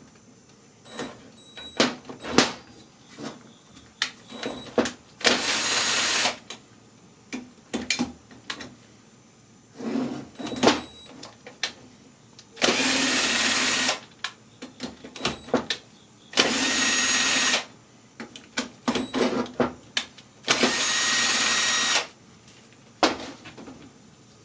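A handheld power tool runs in four short bursts of about a second each with a steady whine, undoing fasteners on a small engine during teardown. Between the bursts come scattered clicks and clinks of metal tools and parts being handled.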